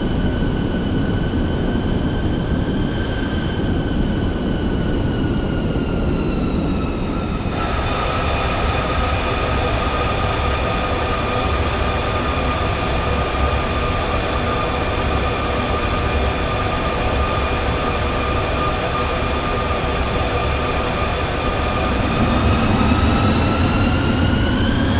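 Airbus A320 jet engines running: a steady whine of several stacked tones over a rushing noise. About seven seconds in the pitch drops a step, then near the end it rises and grows louder as the engines spool up.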